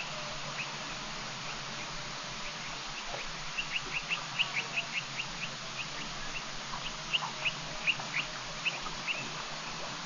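A bird calling in a rapid series of short, high, downward chirps, starting a few seconds in and stopping near the end, over a steady background hiss.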